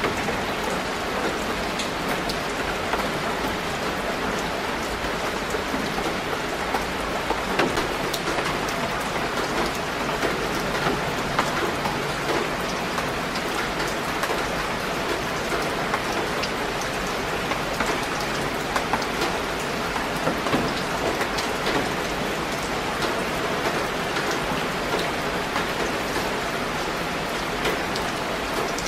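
Steady rain falling on leafy garden plants, with many separate drops striking the leaves.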